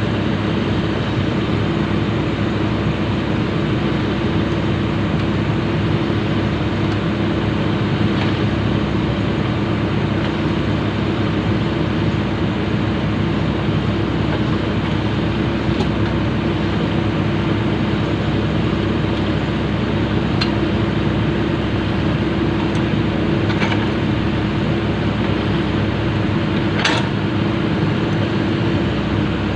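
Komatsu PC200 excavator's diesel engine running steadily, with a few sharp metallic clinks, the loudest near the end.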